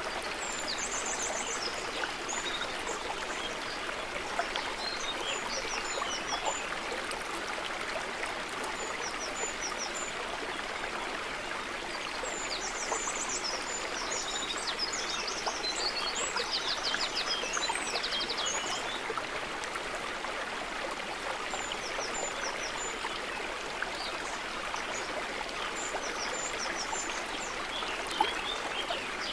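A stream running steadily over rocks, with small birds chirping and singing high rapid trills above it now and then.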